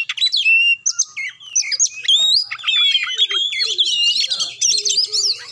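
Oriental magpie-robin (kacer) singing a fast, varied song of whistles, chirps and sweeping notes, with hardly a pause.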